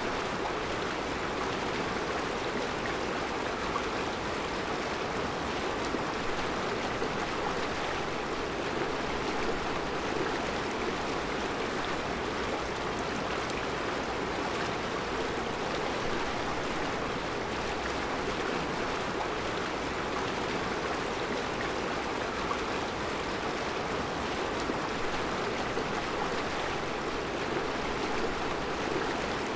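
Mountain river running steadily over round rocks in a rocky bed: an even, unbroken rush of flowing water.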